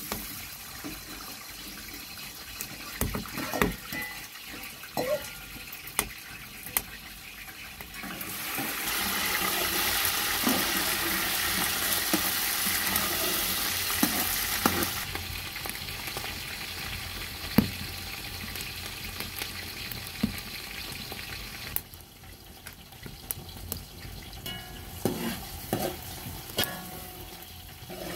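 Food frying in a pan, sizzling, with a utensil stirring and knocking against it. The sizzle swells louder about eight seconds in and eases off again around fifteen seconds.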